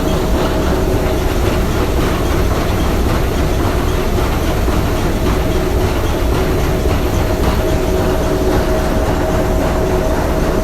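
Three-cylinder triple-expansion marine steam engine running steadily: a dense, even mechanical clatter with two faint steady humming tones over it.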